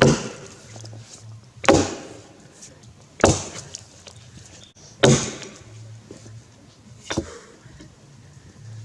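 Axe chopping into a Grey Gum log: four heavy strokes about one and a half to two seconds apart, then a lighter fifth.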